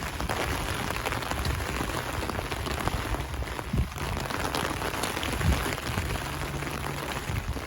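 Heavy rain pouring down: a steady, dense hiss with the patter of individual drops.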